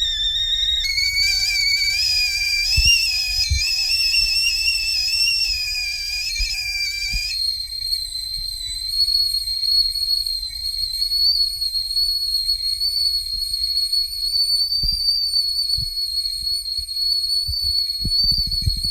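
Endever whistling kettle whistling at the boil. The whistle jumps in pitch about a second in and wavers, then about seven seconds in switches to a single higher, steady tone. A low rumble runs underneath.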